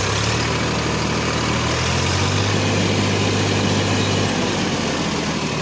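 Tractor engine revving hard under heavy throttle while reversing in low gear with a trolley attached. It runs at high revs for about four seconds, then eases back.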